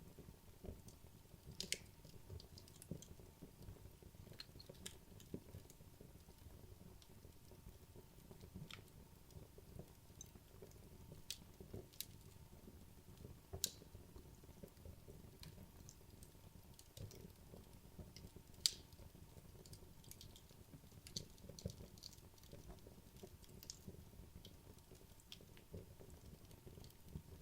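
Wood logs burning in a fireplace: a faint low rumble of flame with irregular crackles and sharp pops, the sharpest about two-thirds of the way through.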